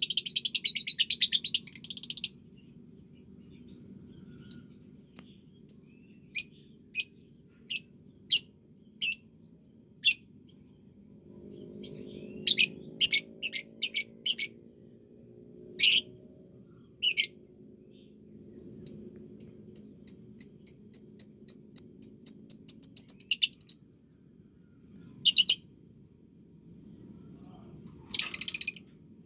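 Lovebird calls: sharp, high single chirps about a second apart, broken by fast runs of chirps at the start, around the middle, and in a long quick series a little past two-thirds of the way through. A faint low hum sits underneath.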